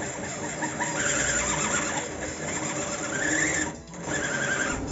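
A 20U industrial zigzag sewing machine running with a strange noise: a squeal that rises and falls about three times over the steady clatter of the mechanism.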